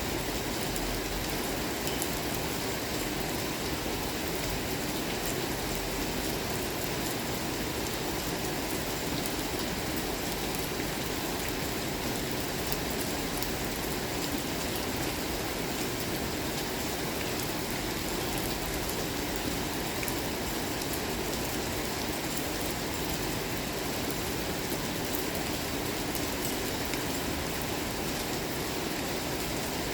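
Steady rain falling, an even hiss with a fine patter of many small drops.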